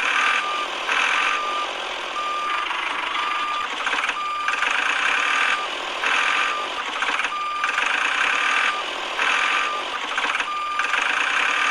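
Electronic reversing-style beeper sounding a short, steady, high beep about once a second, over a buzzing small motor that cuts in and out every second or so.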